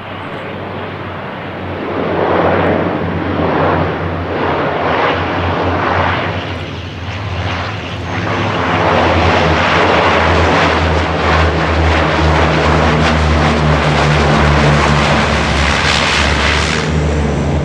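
CL-415 water bomber's twin turboprop engines and propellers running: a steady low hum under a rushing noise that swells and fades every second or so, growing louder and steadier about nine seconds in.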